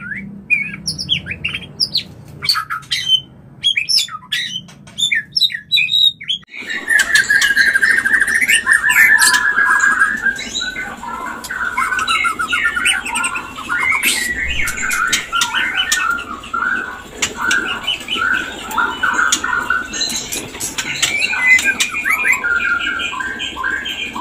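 White-rumped shamas calling: scattered short whistled notes, then about six seconds in a sudden change to dense, harsh, rattling churrs with many sharp clicks. These are the mating-mood shama calls used as a lure to bring other shamas into breeding condition.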